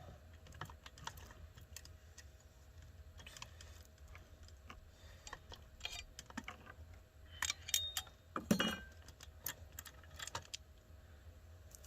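Small metal chainsaw parts clinking and clicking as they are picked up and fitted by hand, with a louder cluster of clicks about eight seconds in.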